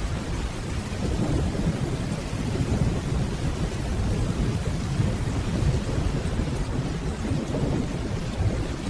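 Steady rainfall over a low, continuous rumble of distant thunder.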